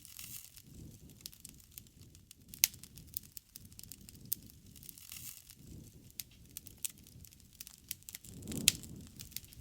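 Wood fire crackling: irregular sharp pops and snaps over a low rustle of burning. There is a loud pop a couple of seconds in, and near the end a brief low surge of flame with another sharp pop.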